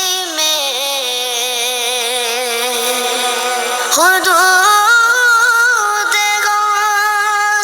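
A solo voice singing a slow, ornamented melody with wavering, sliding notes and no instruments heard. It glides down early on, then leaps to a higher held note about four seconds in.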